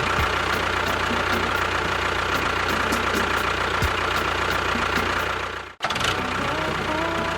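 A motor or engine running steadily with a constant hum. It breaks off abruptly for a moment about six seconds in, then carries on.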